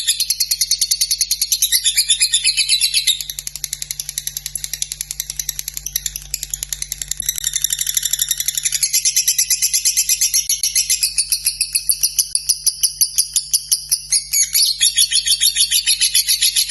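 Lovebird chattering in a long unbroken run of very rapid ticking notes (the 'ngetik' ticking joined into a long 'ngekek'), softer for a few seconds in the middle.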